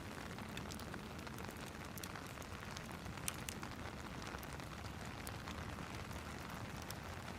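Steady hiss of falling rain mixed with a fireplace crackling: scattered small pops and snaps over the rain, one sharper pop near the middle.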